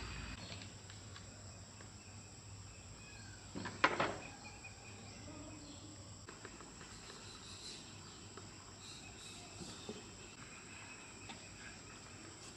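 Faint steady insect chirring, with one sharp knock about four seconds in.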